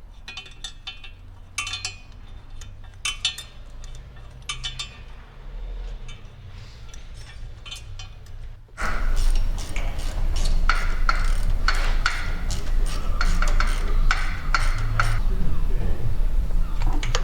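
Scattered metallic clinks and taps of tools and engine parts being handled during engine reassembly. About nine seconds in the sound jumps suddenly louder, with denser clicking and knocking.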